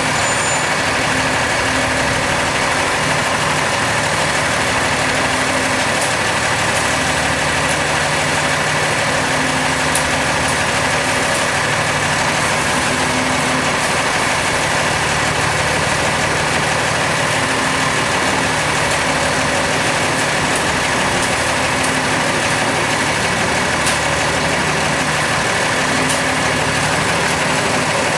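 Heavy engine of street-resurfacing machinery running steadily at constant speed, with a dense hiss over a low hum.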